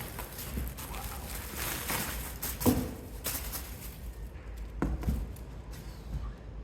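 Handling noises: shuffling and light clatter with two sharper knocks, the first about a third of the way in and the louder, the second a little past two thirds.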